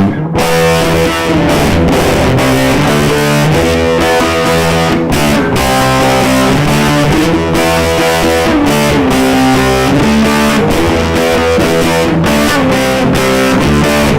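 Electric guitar with two humbuckers, a no-name Les Paul copy, played through a Snarling Dogs Black Dog overdrive/distortion pedal at maximum gain: a loud, heavily distorted chord riff, recorded direct with a little reverb. It stops right at the end.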